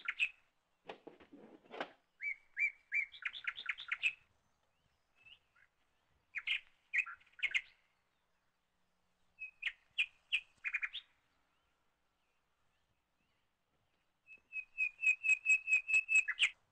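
A bird chirping: bouts of short, quickly repeated high notes with silent gaps between, ending in a fast run of about a dozen notes that grows louder. A brief low rustle comes about a second in.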